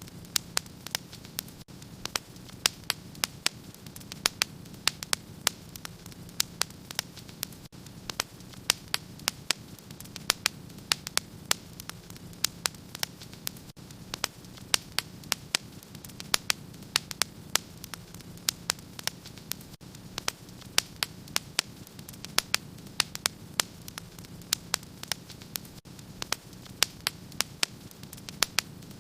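Wood fire crackling in a fireplace: sharp, irregular pops, several a second, over a steady low hiss.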